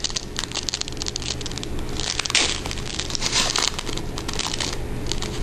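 Foil wrapper of a trading card pack crinkling as it is handled and torn open, with louder crinkles about two, three and a half, and five seconds in.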